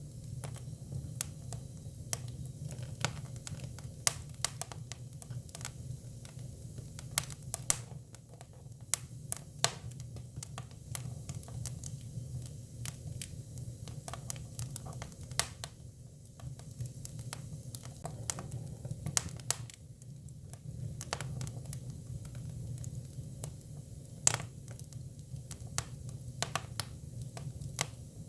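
Hinoki cypress firewood burning: irregular sharp crackles and pops, a few of them loud, over a steady low rumble from the fire.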